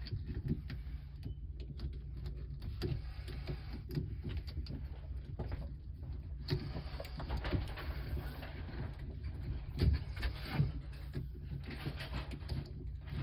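Small irregular clicks and scrapes of pliers working a bent electrical cable straight, over a steady low hum.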